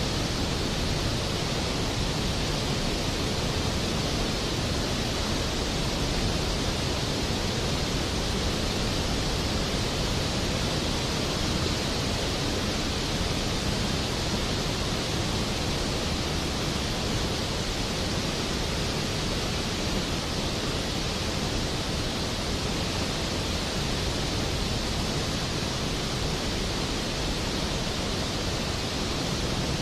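Steady rain: an even, unbroken hiss with no thunder or separate drops standing out.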